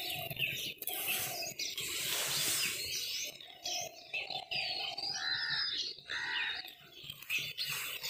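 Birds chirping, many short overlapping calls.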